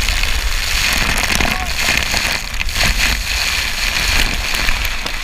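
Water rushing and spraying hard over a rider's camera riding down a water slide, a dense steady hiss with a low buffeting rumble underneath.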